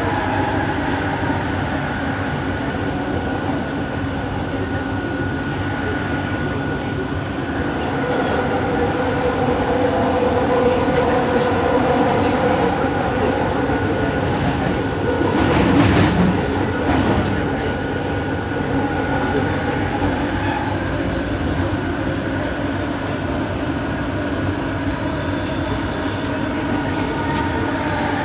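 Bombardier Innovia ART 200 metro train running, heard from on board: its linear induction motors give a steady whine of several tones that shift slowly in pitch over the running rumble. About sixteen seconds in there is a louder rush for a second or two.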